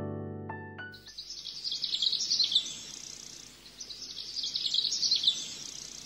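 Piano music fading out, then a songbird singing two rapid, high twittering phrases over a faint steady hiss.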